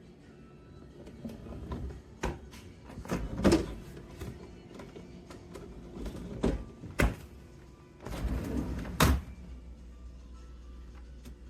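Background music with a string of irregular thunks and knocks: refrigerator doors and drawers being opened and shut. A short rushing noise comes about eight seconds in, followed by a sharp knock.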